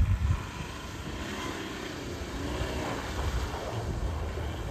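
Car engine running through snow, its pitch rising and falling as it revs, over a steady low rumble, with a brief low thump right at the start.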